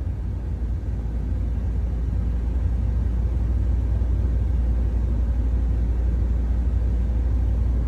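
Steady low rumble of a car on the move: engine and road noise without any sudden knocks or horn.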